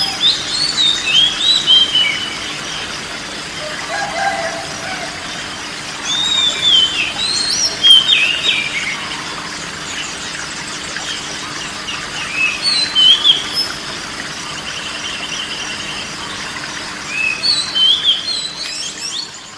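A songbird singing four bouts of quick, varied, gliding whistled phrases, several seconds apart, over a steady background hiss.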